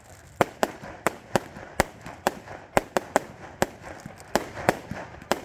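Fireworks going off: a string of sharp bangs at an uneven pace, about two or three a second.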